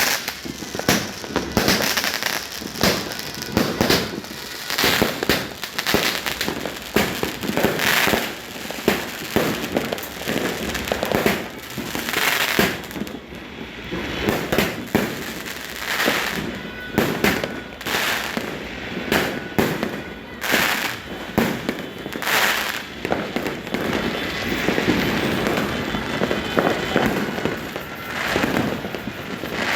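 Many fireworks and firecrackers going off at once, a dense, unbroken barrage of bangs, booms and crackling with no pause between them.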